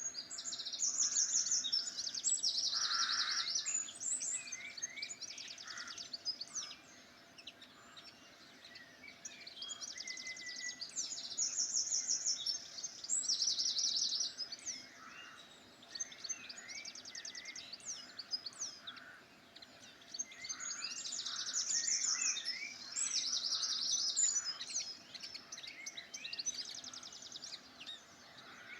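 Several songbirds singing together, with scattered short chirps and whistles. One bird repeats a loud song of rapid trills every ten seconds or so, three times.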